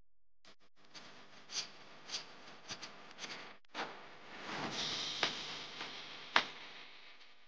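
Small handling noises while makeup brushes are washed at a bathroom sink: a series of light clicks and knocks, with a short hissing rush of water or lathering about halfway through and a sharper click a little after.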